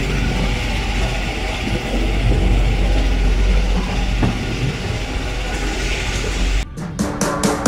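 Rigi cog railway carriage running uphill: a steady rumble and rushing noise of the moving train heard from an open window. The sound cuts off suddenly near the end, followed by a few clicks.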